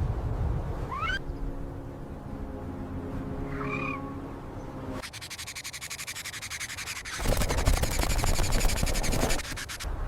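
Bird calls: a quick rising whistle, a short chirp, then a rapid trilling chatter that grows loud about seven seconds in and stops shortly before the end.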